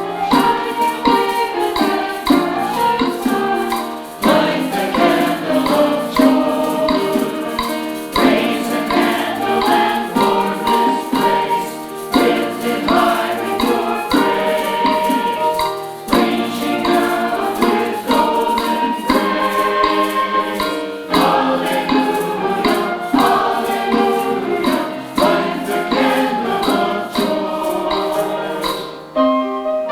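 Choir and congregation singing a hymn with instrumental accompaniment over a steady, crisp percussion beat; near the end the singing and beat stop, leaving a few held instrument notes.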